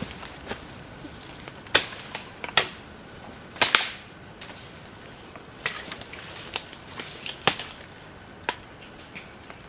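Bamboo shoots being snapped and broken off by hand: a series of sharp, irregular cracks, the loudest bunched in the first four seconds.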